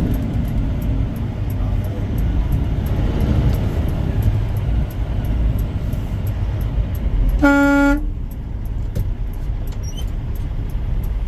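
Steady low rumble of a vehicle in traffic, with one short, loud vehicle horn blast about seven and a half seconds in. Faint regular ticking runs underneath.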